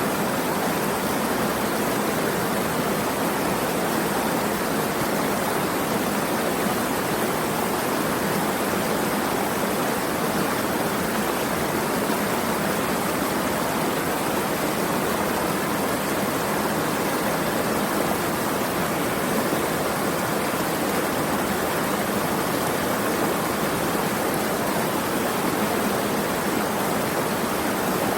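Running water rushing steadily and evenly, with no breaks or distinct splashes.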